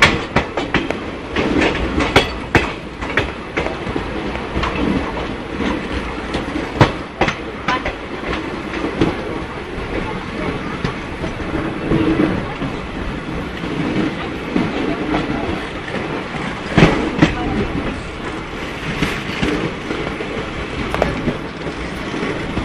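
Passenger express train rolling along a station platform: a steady rumble of coaches with sharp, irregular clacks from the wheels passing over rail joints.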